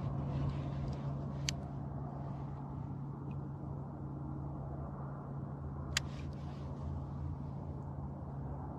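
Steady low motor hum, with two sharp clicks about a second and a half in and again near six seconds.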